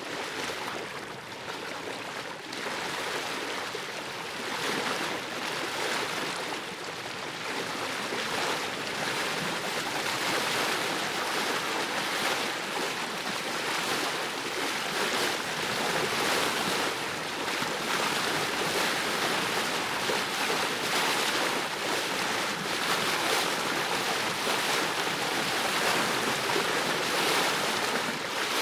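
Ocean surf washing onto a beach: a continuous rush of breaking waves that swells and eases, growing gradually louder across the stretch.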